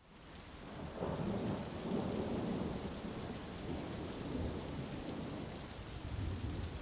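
Heavy rain hissing steadily with a long rolling rumble of thunder, fading in from silence over the first second.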